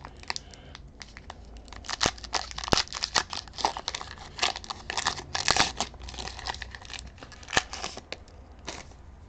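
Crinkling and crackling of a foil booster-pack wrapper and trading cards being handled: irregular snaps and rustles, busiest in the middle and thinning out near the end.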